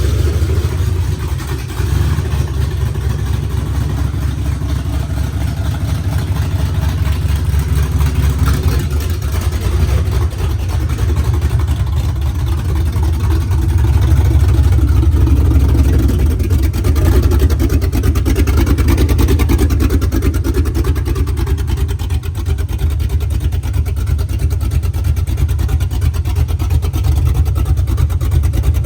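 Ford F-150 pickup truck's engine running loudly, its revs rising and falling as it is driven, growing louder about halfway through.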